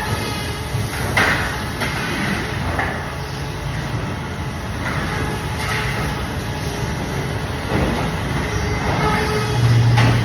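Band saw running steadily, with short rasping or knocking sounds every second or two as the blade cuts through fish; a low hum swells near the end.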